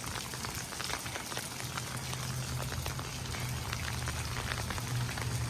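Steady rain falling, a dense patter of drops hitting the ground, with a low steady rumble coming in underneath about a second and a half in.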